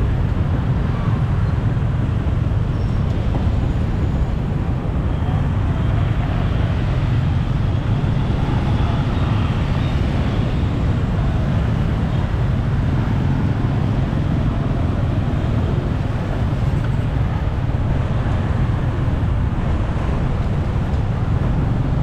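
Steady motorbike and city traffic noise heard while riding pillion through dense traffic, with a heavy, unbroken low rumble.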